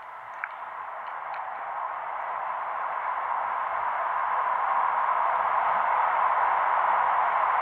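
Shinkansen train running at speed through the Seikan Tunnel: a steady rushing noise from wheels and tunnel air that grows steadily louder.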